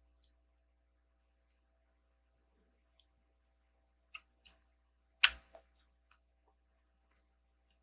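Plastic Lego bricks clicking and tapping as pieces are handled and pressed together, in a few scattered sharp clicks, the loudest a little past the middle.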